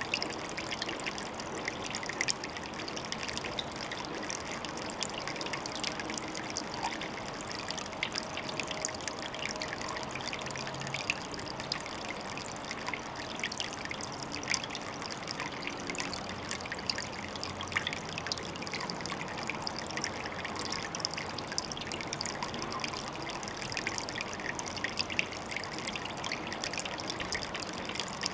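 Water trickling and splashing steadily into a pond, with many small splashes.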